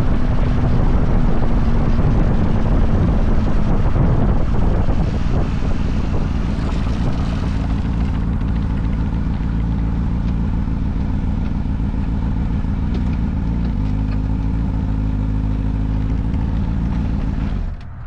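Motorcycle engine running under way, its pitch holding steady near the start and again near the end, with road and wind noise over it. The sound drops off suddenly just before the end.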